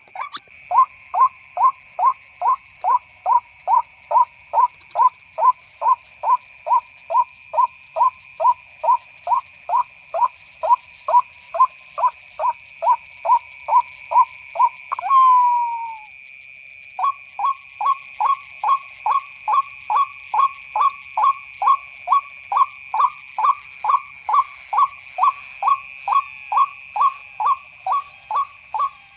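White-breasted waterhen (ruak-ruak) call, played as a lure through a speaker: short calls repeated evenly about three times a second. About halfway through comes one longer falling note, a second's break, then the rapid calls start again. A steady high hum runs underneath.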